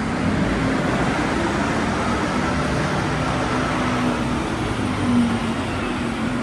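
Busy city street traffic noise, with a steady low engine hum running underneath.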